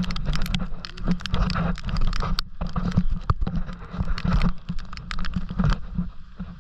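Heavy rain: drops pattering and tapping irregularly on hard surfaces close to the microphone, over a low rumble of wind buffeting the microphone.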